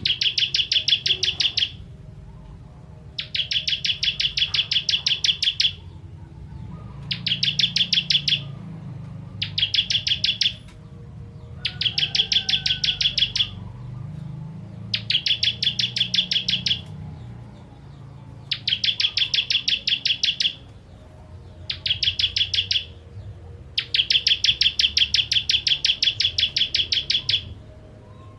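Ciblek kristal, a prinia, singing its fast 'tembakan' bursts: about ten phrases of rapid, evenly repeated sharp chip notes, each phrase one to two and a half seconds long with short pauses between. A faint low hum runs underneath.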